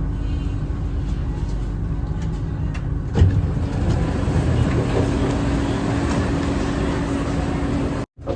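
Running noise heard inside a BTS Skytrain EMU-B1 train car in motion: a steady rumble with a constant hum, a single knock about three seconds in, and a sudden short gap near the end.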